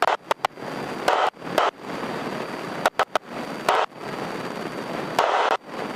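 Cabin noise of a Grumman light airplane in flight, the engine and wind heard as a steady rushing hiss through the headset intercom. The noise cuts out abruptly and snaps back several times, giving a series of sharp pops.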